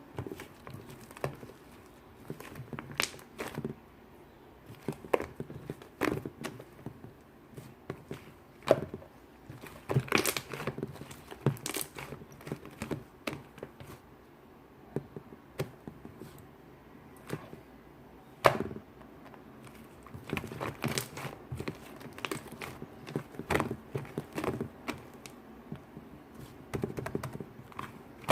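Shaving foam being stirred and mixed, with irregular wet squishing, crackling and clicking.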